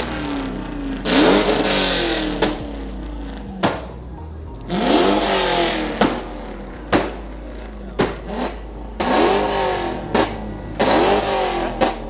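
A car engine is revved hard about four times, each rev rising in pitch, with loud sharp cracks from the exhaust between the revs. The bystanders find it excessive.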